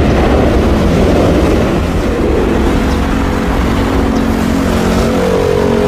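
Loud steady aircraft engine noise, a low rumbling roar; a steady hum comes in about two seconds in.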